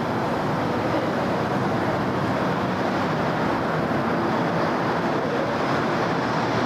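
Steady city road traffic: an even, continuous wash of passing vehicles with no single event standing out.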